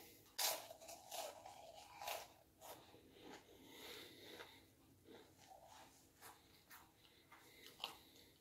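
Close-up chewing with irregular crisp crunches of food and soft mouth sounds, faint throughout.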